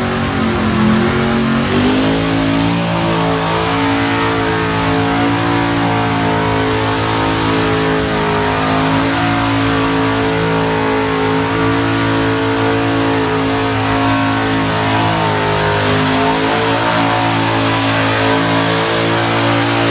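Burnout car's engine held at high revs while its rear tyres spin on the pad. The revs climb about a second in, then hold steady with slight wavering.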